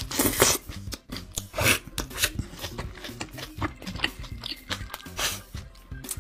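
Close-up chewing of a mouthful of hamburger with lettuce: irregular crunches and mouth smacks, several a second.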